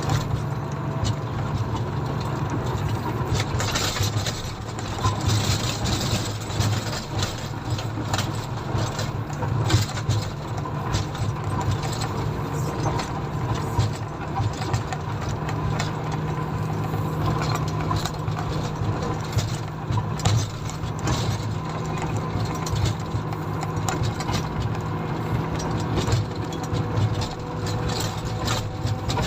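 Komatsu motor grader's diesel engine running steadily at work, with a constant low drone and frequent short rattles and clanks from the machine.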